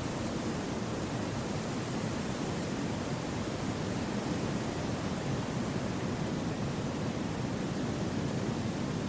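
Wind ambience: a steady, even hiss of wind with no gusts or separate rustles.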